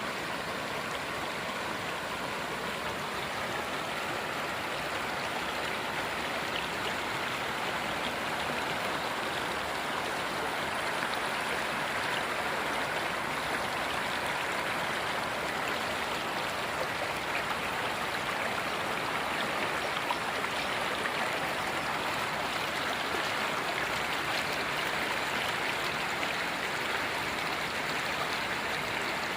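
River water flowing, a steady rush.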